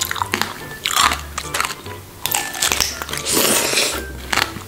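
Close-up crunching and chewing of a strawberry tanghulu, the hard candied sugar shell cracking between the teeth in three spells about a second apart.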